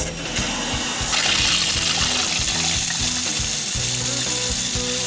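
Water running steadily from a newly installed Delta 10900LF kitchen faucet into the sink, as an even hiss that sets in just after the start and holds level.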